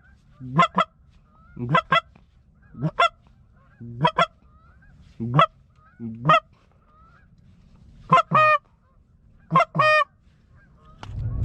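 Goose honks blown on a hunter's goose call: about eight short two-note honks spaced a second or so apart, with a longer gap just past the middle.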